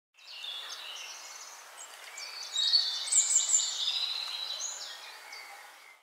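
Several birds calling and chirping over a steady hiss, the calls overlapping; it fades in, is busiest around the middle, and fades out near the end.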